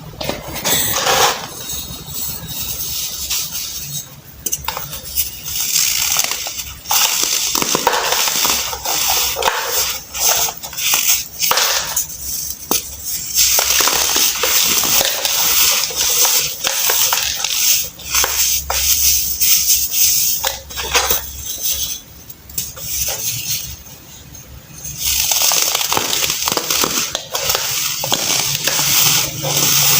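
Blocks of baked baking soda being crushed and crumbled, a dense crunchy crackling full of fine snaps that comes in bouts with short pauses between.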